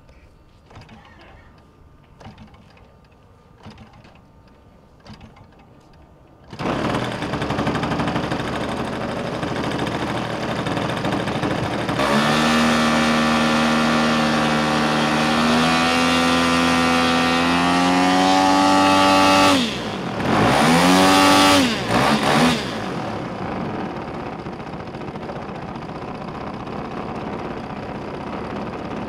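Giant-scale R/C YAK-54's gasoline engine starting suddenly after a few faint clicks, running, then opened up with a slowly rising pitch. It is throttled back, blipped up twice, and settles to a steady idle.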